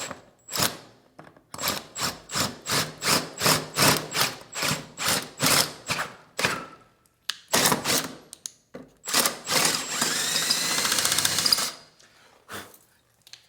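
Power drill boring out a stripped screw hole in a threshold rail with a depth-marked bit, the trigger pulsed in short bursts about two to three times a second. Near the end it runs continuously for about two seconds with a rising whine.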